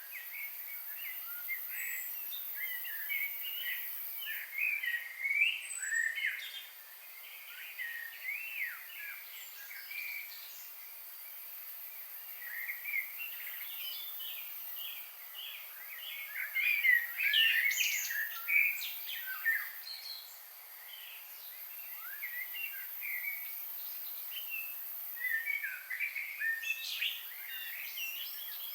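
Several songbirds chirping and warbling together in quick overlapping phrases, in busy spells with thinner stretches between, over a steady high hiss.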